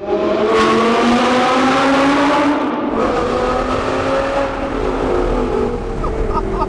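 Audi R8 V10 engine accelerating hard, its pitch climbing for a couple of seconds, then dropping at a gear change about three seconds in and running on under load.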